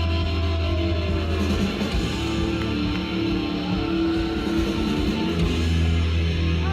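Live hard rock band playing an instrumental passage, led by distorted electric guitar over bass and drums.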